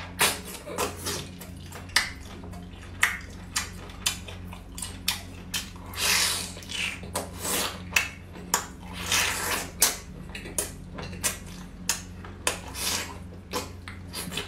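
Close-up eating sounds of a person chewing squid: many short wet smacks and clicks, several a second, with a few longer slurping sounds, the clearest about six and nine seconds in.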